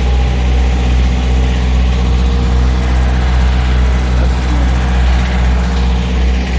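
Large engine idling: a loud, steady low rumble that does not change.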